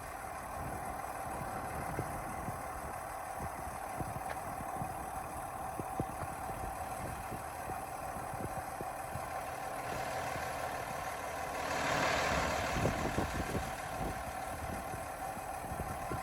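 Diesel engine of a 2015 Freightliner gravel truck idling steadily with a light clatter. Near the end a louder rushing noise rises for a second or two.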